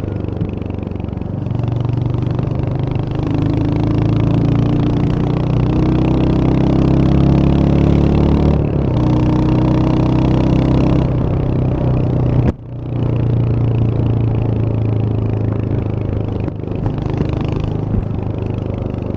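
Royal Enfield Hunter 350's single-cylinder engine pulling under way. Its note rises with speed and drops at two gear changes, the second with a brief throttle cut about twelve seconds in.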